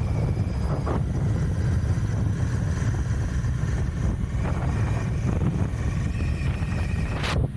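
Royal Enfield Continental GT 650's parallel-twin engine running through its stock exhaust while riding, a steady low rumble with wind buffeting the microphone. A brief sharp noise cuts in just before the end.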